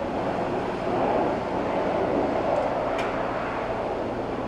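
Honda Fan 160's single-cylinder engine running steadily under way, with wind noise on the microphone.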